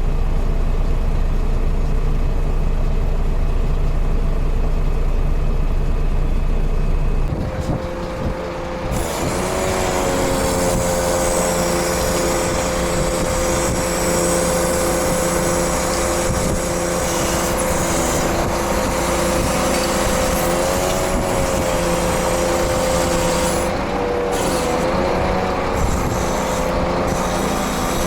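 Scania truck's diesel engine running with a steady low hum. About seven seconds in the sound changes, and from about nine seconds a steady whine with a hiss over it runs on, wavering in pitch a couple of times.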